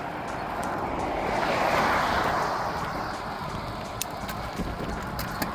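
A car passing by: its tyre and engine noise swells to a peak about two seconds in, then fades. Wind rumbles on the microphone, and a few light clicks come near the end.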